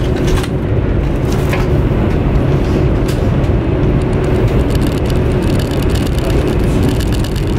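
Steady low rumble of a high-speed train running, heard from inside the passenger carriage, with a faint steady hum over it.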